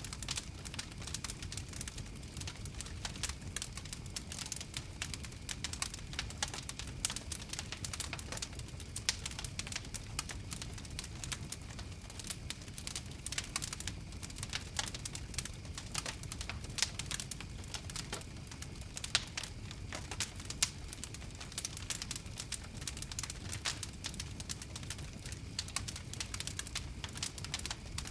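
Wood fire crackling: a dense, irregular patter of sharp pops and snaps over a low steady rumble of burning flames, with a few louder pops in the middle.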